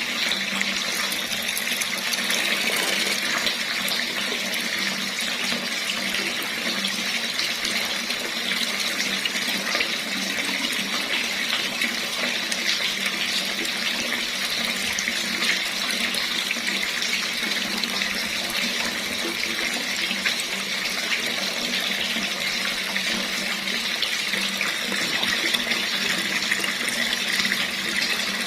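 Water running steadily from a tap and splashing into a basin below, an even rushing splash with no breaks.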